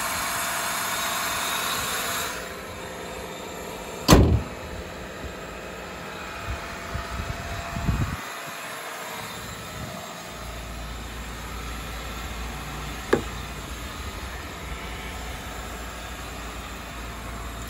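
1999 Toyota Camry's 2.2-liter 5S-FE four-cylinder idling after a cold start, louder for the first two seconds and then lower. About four seconds in the hood is slammed shut, with a few lighter knocks after it and a single click later on.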